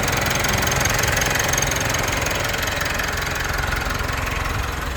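Mitsubishi Triton pickup engine running steadily, running well again after the truck was flooded and sat in water for about a week.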